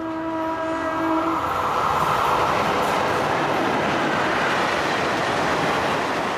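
Train running past through a covered station shed: a dense, steady rush of wheels on rails that swells about two seconds in and stays loud. Under its start, a held tone of several pitches stops about a second and a half in.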